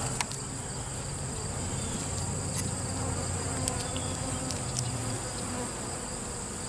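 Many honey bees buzzing as a steady hum around an open hive under inspection, with a few faint ticks.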